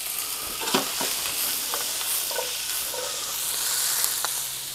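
Diced vegetables frying in butter in a skillet as they are stirred with a spatula: a steady sizzle broken by a few sharp clicks of the spatula against the pan.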